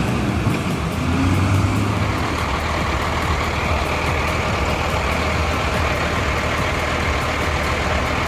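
Heavy diesel engine running steadily with a low drone and a dense mechanical rumble.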